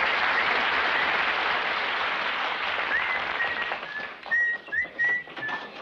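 Studio audience applause that fades out about three and a half seconds in, with caged birds in a pet shop chirping. The birds' short, high chirps repeat and become clear as the applause dies away.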